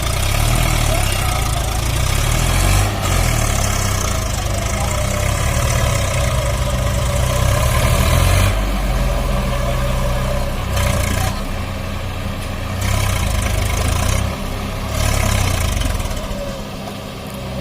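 Tractor diesel engine running, its sound swelling and dipping every few seconds.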